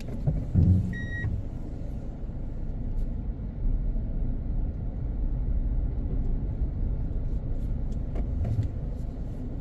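Steady low rumble of road and engine noise heard from inside a moving car. A short, high beep sounds about a second in.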